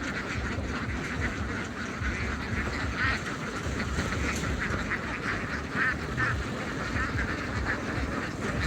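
A large flock of ducks quacking continuously, many calls overlapping, over a steady low rumble.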